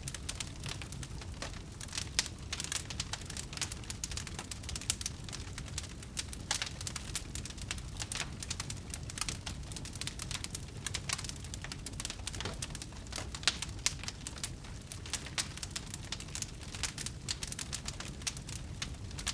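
Wood fire in a fireplace crackling: a dense, irregular run of sharp pops and snaps over a steady low rumble of flame.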